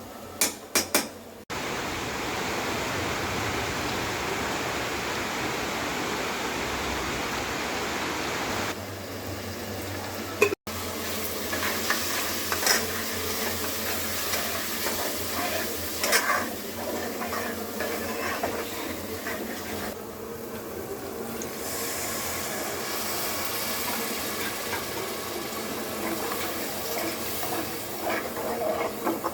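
Cooking at a pot: a few sharp clicks, then a steady sizzle, then, after a cut, a utensil stirring and clattering against the pot with more sizzling underneath.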